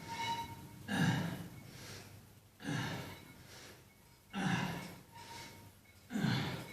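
A man breathing hard from exertion: four forceful gasping breaths, evenly spaced about every second and a half to two seconds, in time with the effort of each repetition.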